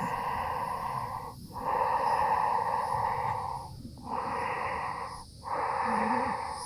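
A person breathing deeply and slowly through the nose: four long, hissing breaths in and out, each one to two seconds, with short pauses between them. Insects keep up a steady high chirring behind.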